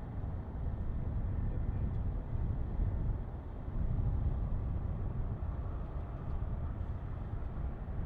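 Low, steady rumble of jet airliner engines, with a faint thin whine above it.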